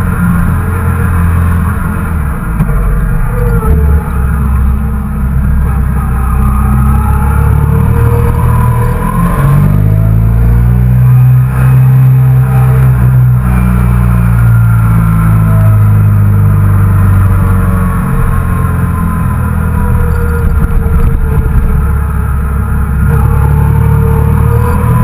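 Yamaha TDM 850's parallel-twin engine running under way on the road. About ten seconds in it pulls harder and its pitch rises for several seconds, then eases back down.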